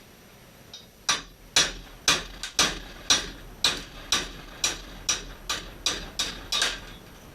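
A hammer striking metal about fourteen times, roughly two blows a second, with a short ring after each: hammering out an old bearing from a YZ125 two-stroke engine case.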